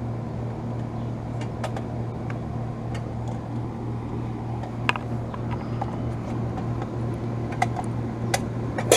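A few sharp clicks and knocks as the pull-out disconnect block is handled and pushed back into the air conditioner's disconnect box, mostly in the second half, over a steady low hum.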